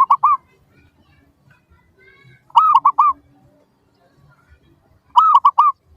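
Zebra dove (perkutut) cooing: three short phrases of three or four quick rounded notes each, one about every two and a half seconds, with faint chirping of other small birds in between.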